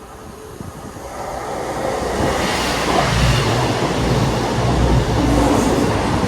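A pair of CrossCountry Class 220/221 Voyager diesel multiple units passing through the station. Their underfloor diesel engines and wheels build to a loud, steady drone over the first few seconds as the train draws level and runs by.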